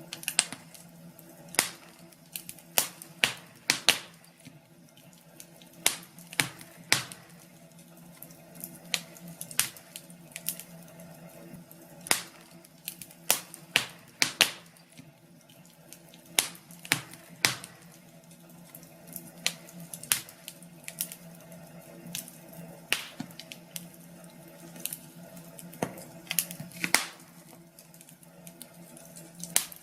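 Fire crackling in a fireplace: irregular sharp pops and snaps, a few to several each second, over a steady low hum.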